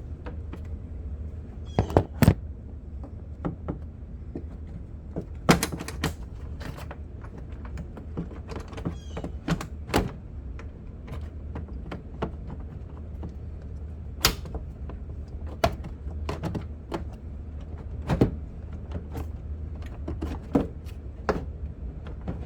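Scattered clicks and knocks of hand tools and plastic parts being handled while a truck's headlight assembly is taken off, over a steady low hum.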